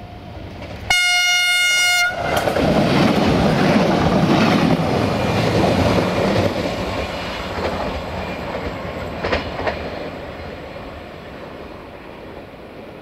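Siemens Desiro diesel multiple unit giving one loud horn blast of about a second that cuts off sharply, then passing close by with a loud rush of engine and wheel noise. A couple of sharp wheel clacks come near the end of the pass, and the noise fades away as the train goes.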